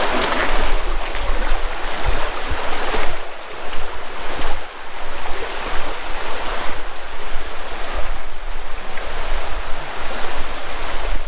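River water rushing steadily over stones, with wind buffeting the microphone as an uneven low rumble.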